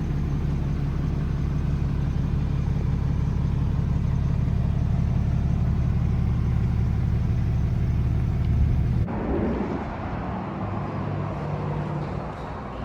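Detroit DD8 7.7-litre turbo diesel in a Freightliner M2 truck, running with a steady low rumble. About nine seconds in it stops abruptly, leaving a quieter, hissier background.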